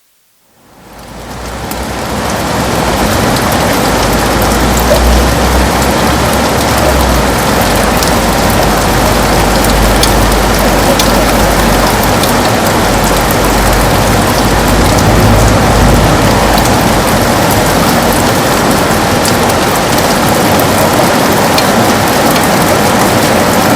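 Heavy rain on a window: a steady dense hiss of rain with scattered sharp drop ticks, fading in from near silence over the first two seconds. A low rumble sits under it for several seconds early on.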